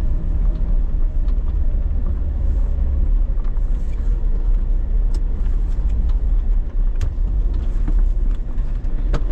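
Vehicle driving slowly through deep snow: a steady low engine and tyre rumble, with a few sharp knocks in the second half.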